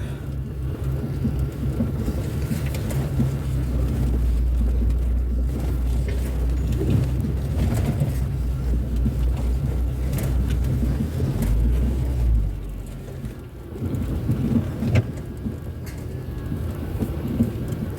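Car engine and road noise heard from inside the cabin while driving: a steady low drone that eases off about twelve seconds in, with occasional bumps and knocks.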